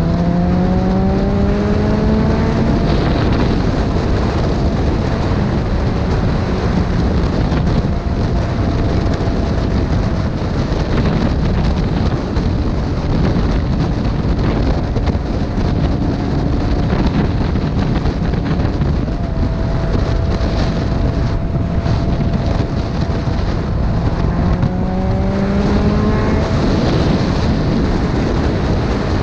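Motorcycle engine rising in pitch as it accelerates, then holding a steady cruise, with a second climb in pitch near the end. Heavy wind rushes over the microphone throughout.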